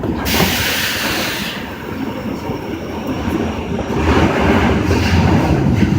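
Osaka subway train on the Tanimachi Line running between stations in the tunnel, a steady rumble of wheels and running gear with a loud hiss early and the low rumble growing louder from about four seconds in.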